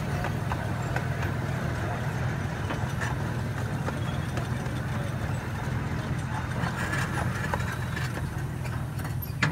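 Miniature zoo train running along its track, heard from an open passenger car: a steady low rumble of locomotive and wheels, with occasional clicks and rattles.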